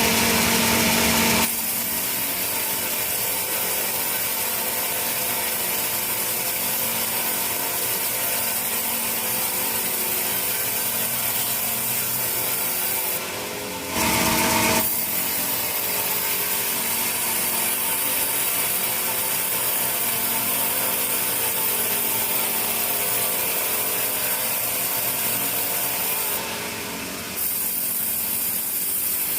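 Sawmill saw running and cutting through teak wood: a steady rasping machine noise. It is louder, with a hum, for about the first second and a half and again briefly about halfway through.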